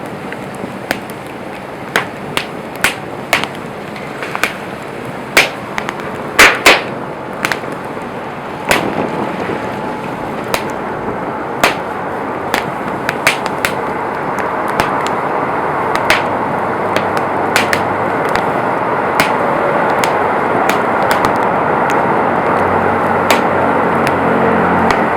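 Wood campfire crackling, with frequent sharp pops and snaps of burning wood over a steady rushing noise that grows louder from about nine seconds in.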